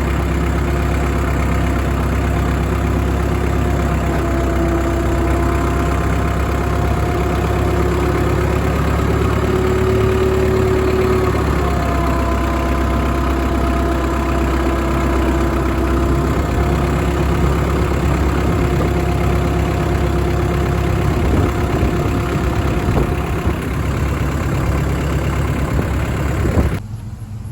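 A vehicle engine running steadily with a strong low rumble and a faint steady whine, starting and stopping abruptly.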